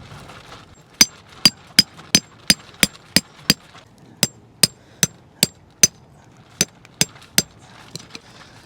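Tent stakes being hammered into the ground: about fourteen sharp strikes in three runs, roughly three a second, each with a brief metallic ring.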